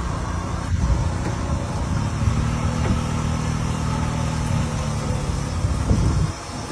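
A tractor engine running steadily, dropping in loudness near the end.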